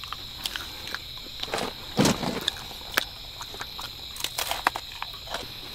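Steady high chirring of insects, with scattered small clicks and a few knocks of handling, the loudest about two seconds in and another a second later.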